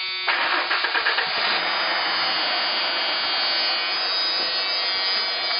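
Ford F-150's 4.9-litre inline-six engine running steadily with a harsh mechanical clatter, growing louder and fuller about a third of a second in. The owner cannot tell whether the noise is lifter knock or the engine's normal sound.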